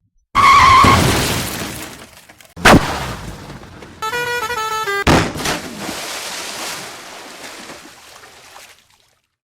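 Crash sound effects: a loud smashing crash that fades over about two seconds, a sharp bang, then after a brief snatch of music another crash that dies away slowly.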